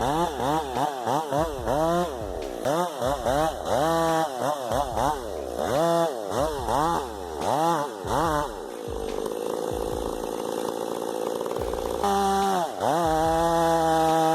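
Chainsaw revved in quick repeated blips, its pitch rising and falling two or three times a second. It then runs more evenly for a few seconds and, near the end, climbs to a steady high-revving whine.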